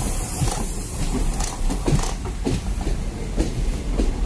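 Passenger train coaches running past close by: a steady rumble of wheels on the rails with irregular clattering knocks.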